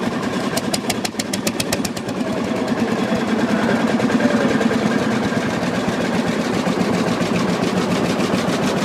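Vintage tractor engine running with a rapid, regular knock of about eight beats a second.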